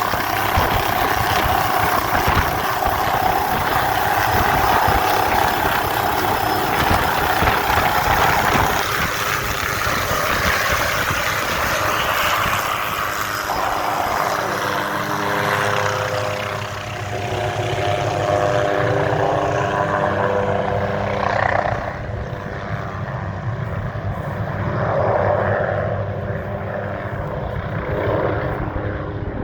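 Hughes 500C turbine helicopter running loud after take-off, turbine and rotor noise together. Its high hiss fades over the second half, leaving a duller hum of several steady tones.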